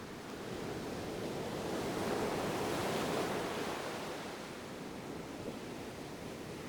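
Ocean waves washing onto a shore: one wave swells to a peak about three seconds in and then recedes into a steady surf hiss.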